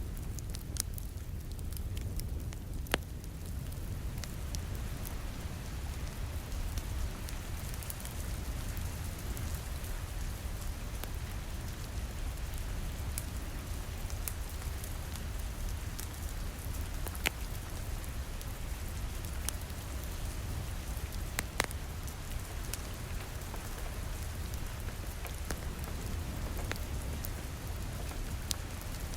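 Steady rain falling against a window, mixed with a crackling wood fire in a fireplace that gives occasional sharp pops over a low rumble. The rain thickens over the first few seconds.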